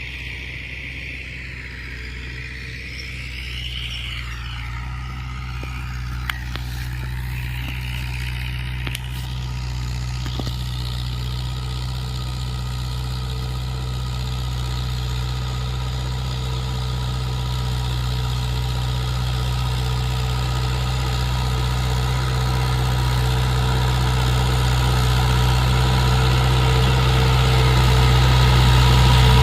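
Mahindra tractor's diesel engine running steadily, growing gradually louder as it comes closer.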